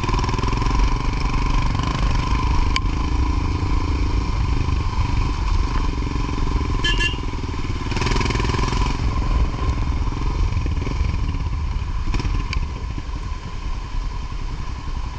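Motorcycle engine running while under way, a steady low rumble, with a brief high chirp about seven seconds in.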